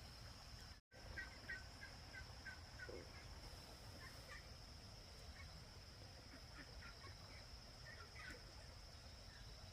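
Faint, short bird chirps repeated in quick runs over a steady high-pitched hum, with a brief dropout near one second in.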